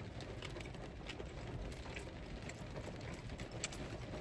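Person chewing a bite of sushi roll close to the microphone: soft, irregular mouth clicks and smacks.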